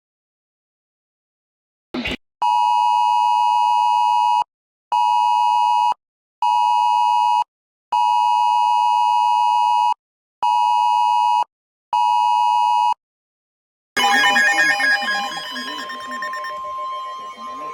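Wireless Emergency Alert attention tone: a two-tone beep in its set cadence of one long and two short beeps, played twice. About 14 s in, a jumble of other alert tones and room noise begins.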